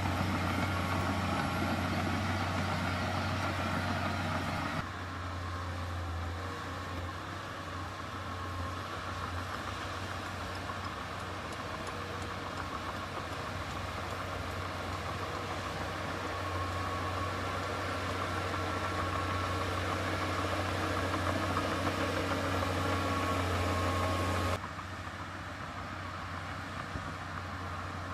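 Diesel engine of heavy earthmoving machinery running steadily, a deep continuous drone. The sound changes abruptly in level and tone about five seconds in and again near the end.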